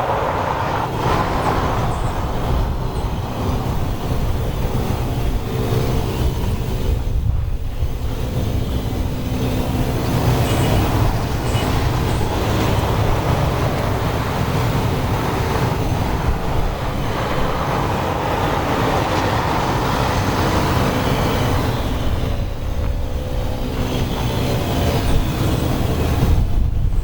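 Turboprop aircraft engines running, a steady propeller drone with a low rumble underneath.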